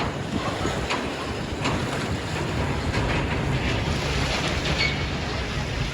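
Steady outdoor rushing noise, with wind buffeting the microphone and a few faint clicks.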